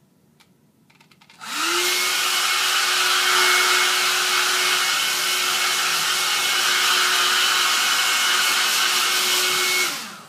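Handheld hairdryer switched on about a second and a half in, its motor whining up to speed within a fraction of a second and then blowing steadily and loudly for about eight seconds, before it is switched off near the end and the motor winds down.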